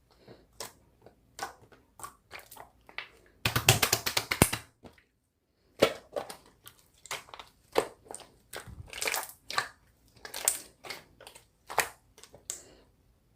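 Slime being squeezed and pressed by hand, giving irregular crackling and crunching pops. A dense run of crackles comes about four seconds in, then a short pause.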